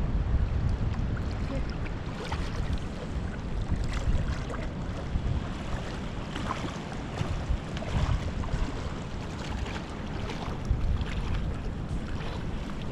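Wind buffeting the microphone, with light splashing and lapping of water.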